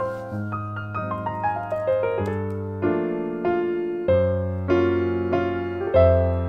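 Gentle background piano music: single notes played in a steady flowing run over held low bass notes, each note striking and then fading.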